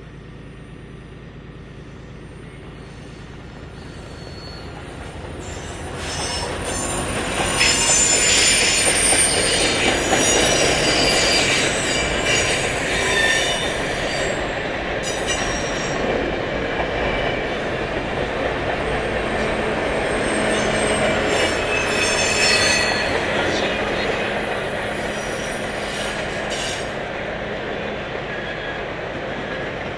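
Canadian Pacific Holiday Train passing close by: the diesel-hauled train grows louder as it approaches, is loudest about eight seconds in, then its cars roll steadily past. High steel wheel squeals come and go, strongest in the first half and again briefly later, and the sound slowly fades toward the end.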